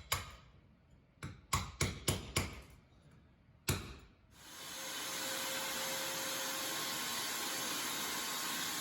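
A series of about seven sharp knocks and clacks, several close together, like hard parts being handled or set down. About four seconds in, a steady hiss starts and holds level.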